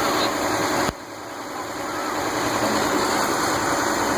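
A vehicle engine idling steadily under a general outdoor noise. About a second in the sound cuts abruptly to a lower level and then builds back up.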